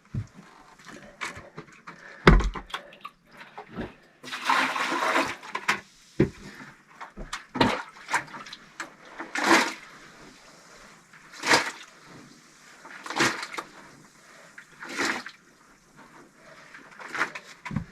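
Water splashing and sloshing in short strokes about every two seconds, with a longer splashing run about four seconds in.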